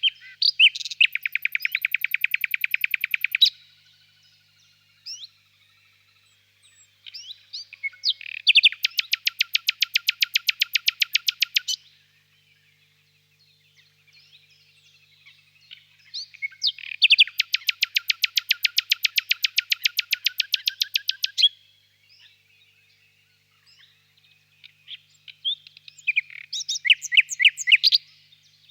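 Nightingale singing: four loud phrases of fast, evenly repeated notes, each lasting a few seconds, with pauses between them. Fainter chirps sound in the gaps.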